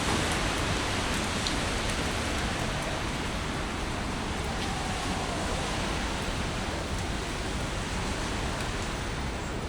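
Heavy typhoon rain falling steadily, an even rushing hiss, with a few faint scattered ticks.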